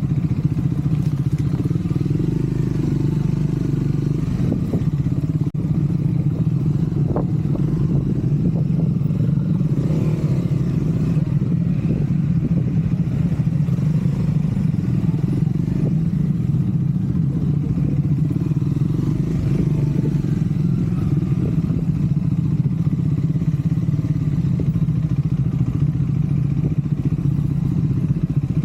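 Triumph Scrambler 400 X's single-cylinder engine running steadily under way, with no large revs.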